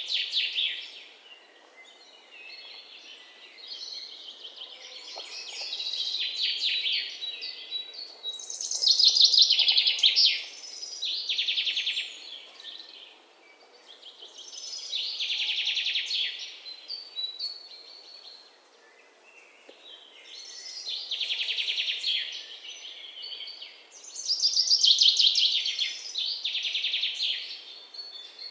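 A songbird singing: high, rapid trilled phrases a couple of seconds long, repeated about every four to six seconds, six in all, over a faint outdoor background hiss.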